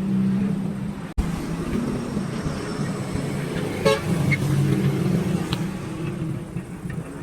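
Road traffic: a vehicle engine hums steadily, with a short horn toot about four seconds in. The sound drops out for an instant about a second in.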